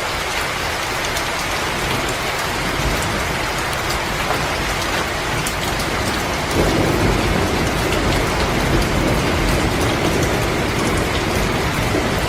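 Wood fire crackling with scattered sharp pops over a steady rushing noise, which suddenly grows fuller and deeper about halfway through.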